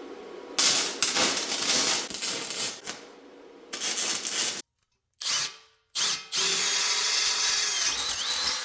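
Welder tacking steel angle iron onto a steel base: several bursts of harsh, noisy arc sound, each starting and stopping abruptly, the longest lasting a couple of seconds near the end.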